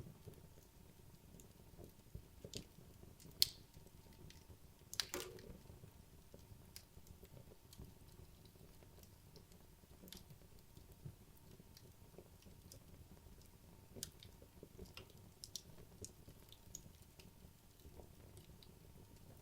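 Wood logs burning in a fireplace: a faint low rumble of flame with scattered small crackles and ticks. Two sharper pops come about three and a half and five seconds in, the second with a brief hissing tail.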